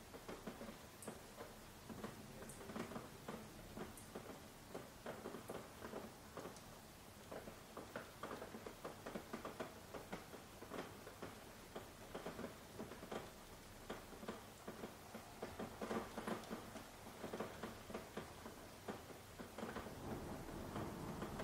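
Raindrops pattering in faint, irregular taps, growing a little denser and louder in the second half.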